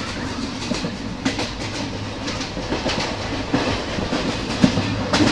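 Passenger train running at speed, heard from aboard the carriage: a steady rumble with wheels clattering irregularly over rail joints, and a sharper knock near the end.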